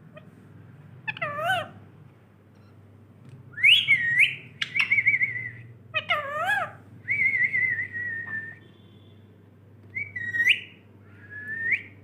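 Pet Indian parrot whistling and calling: a string of short warbling whistles, with one longer held whistle near the middle.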